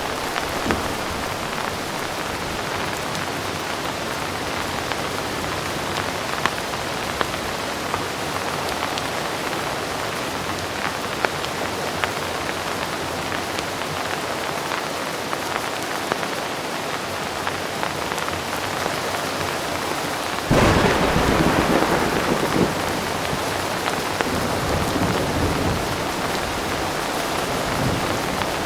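Heavy rain falling steadily, with scattered sharp drip ticks. About two-thirds of the way in, a thunderclap breaks in suddenly and rumbles on, fading over several seconds.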